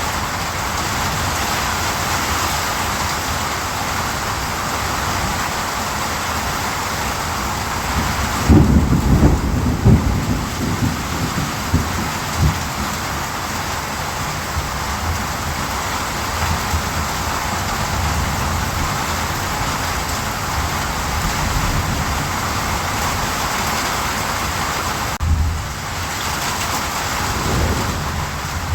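Steady rain falling, with a rumble of thunder that starts about eight seconds in and rolls on for several seconds, and a shorter, fainter rumble near the end.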